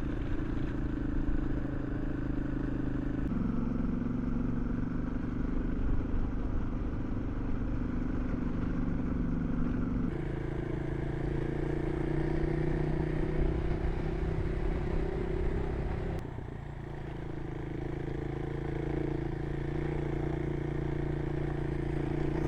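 Suzuki DR650 single-cylinder engine running while riding. The engine note steps down about three seconds in, rises about ten seconds in, and dips briefly about sixteen seconds in before settling again.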